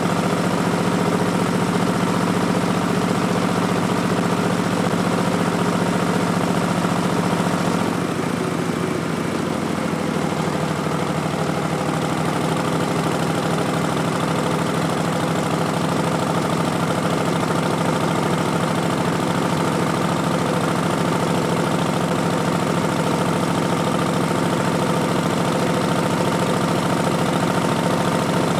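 Harley-Davidson Street Bob's V-twin engine running through Vance & Hines Twin Slash slip-on mufflers with an Arlen Ness Big Sucker intake, a steady pulsing exhaust note. About eight seconds in the note drops lower and slightly quieter, then holds steady again.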